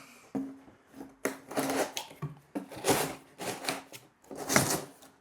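Corrugated cardboard shelf parts being handled and slid against each other: several rough scraping rubs and light knocks with short pauses between.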